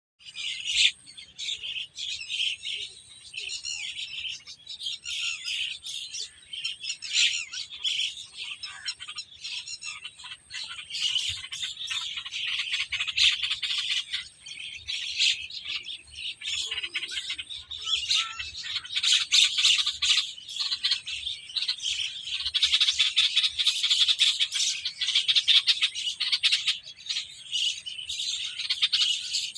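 A flock of small birds chirping and squawking together in a dense, continuous chatter, with many overlapping calls, busier in the second half.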